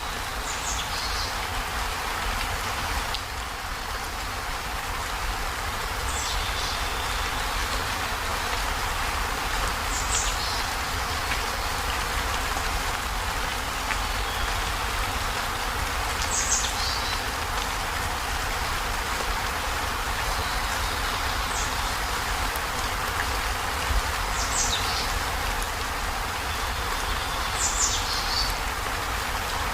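Heavy rain drumming steadily on a zinc corrugated-metal roof, an even hiss with a low rumble beneath. Short high chirps sound every few seconds over it.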